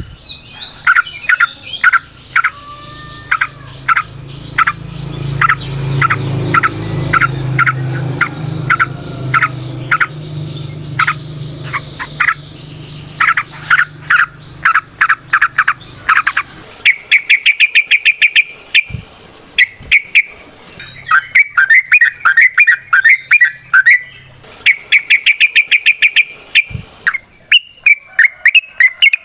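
Yellow-vented bulbuls (trucukan) calling: a run of sharp, repeated notes that turns into faster, denser chattering trills from about halfway through. A low steady hum sits under the first half and fades out.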